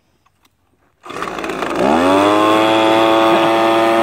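Small engine starting up about a second in, then revving up to a high, steady pitch and holding it, loud.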